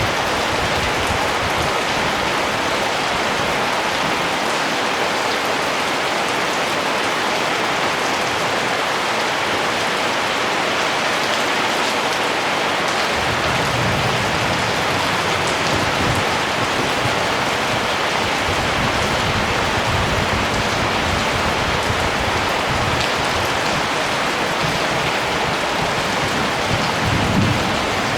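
Steady rain falling and pattering on surfaces, with bursts of low rumble through the second half.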